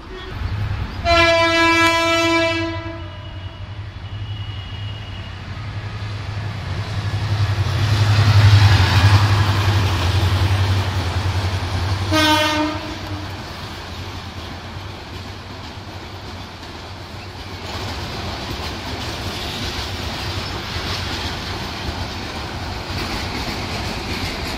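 Bangladesh Railway diesel locomotive-hauled passenger train passing close by. A horn blast about a second in lasts a couple of seconds. The engine's low rumble then swells as the locomotive goes past, with a second, short horn blast about twelve seconds in. The coaches roll by with steady wheel noise for the rest.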